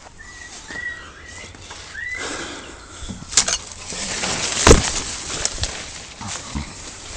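New Zealand kaka parrots calling: a run of short whistled notes, each flicking upward, over the first two seconds, then a harsher, noisier stretch. A sharp knock about four and a half seconds in is the loudest sound.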